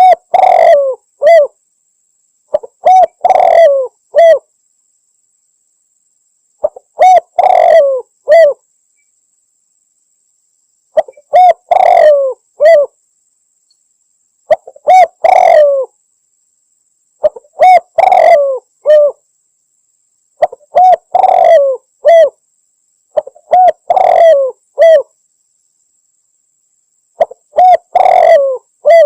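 Spotted dove cooing: the same three-note phrase, a short coo, a longer drawn-out coo and a short closing coo, repeats about every three to four seconds with silence between.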